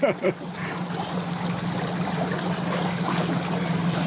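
A boat motor running steadily with a low hum, under a continuous rushing of water.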